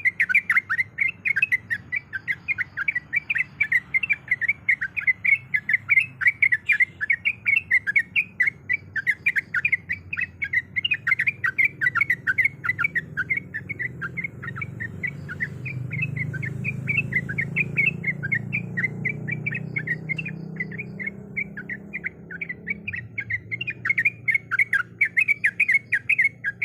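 Yellow-vented bulbul (trucuk) chattering in a rapid, unbroken string of short chirps, several a second. A low background hum grows louder in the middle.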